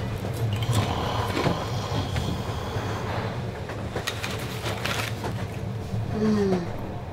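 Train running, heard as a steady low rumble with scattered knocks and clatter. A short falling tone sounds about six seconds in.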